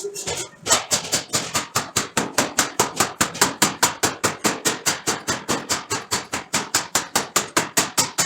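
Forging hammer striking a steel billet in a fast, even series of blows, about six a second, starting just under a second in.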